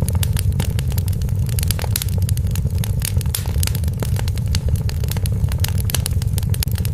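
Wood fire crackling in a fireplace: many quick sharp pops and snaps over a steady low rumble.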